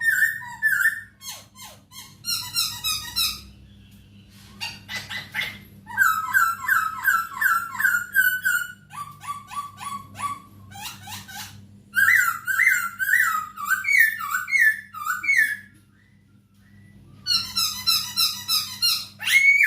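A poksay hongkong laughingthrush singing: phrases of rapid, repeated whistled and chattering notes, broken by short pauses, with one longer pause about three-quarters of the way through.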